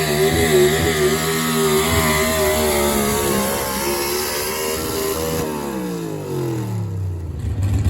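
Pulling truck's engine held at high revs under load, its pitch wavering a little, then the revs fall away steadily over the last two seconds or so as the throttle comes off.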